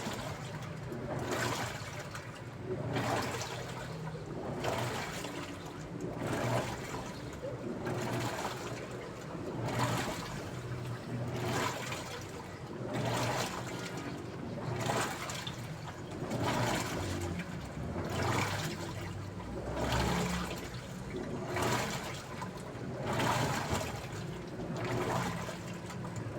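Daewoo washing machine washing a load: a low motor hum with a swish of water about every second and a half as the drum works back and forth.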